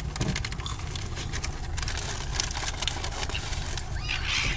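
Seagulls' beaks and feet tapping on a car windscreen, heard from inside the cabin as many irregular sharp clicks over a steady low rumble. A brief rustling burst comes near the end.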